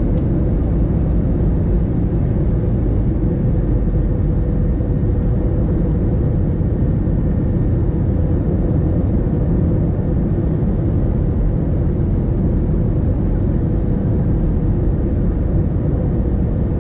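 Airbus A321 cabin noise: a loud, steady low rumble of the engines and airflow with a faint steady hum above it.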